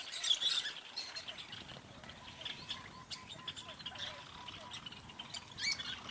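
Several small birds chirping and twittering, with calls overlapping and busiest about half a second in and again near the end.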